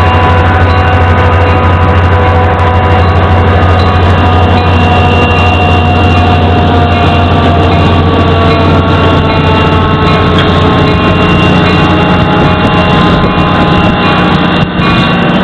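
Diesel locomotive engine running steadily close to the microphone. It makes a strong low drone with several held tones above it that sag slightly in pitch midway.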